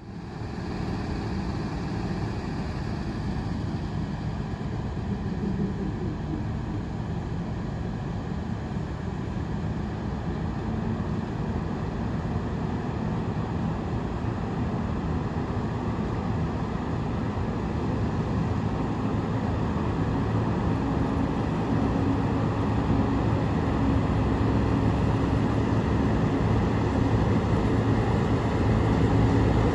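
A train approaching, its running noise growing steadily louder, with a low steady engine hum coming up in the latter half.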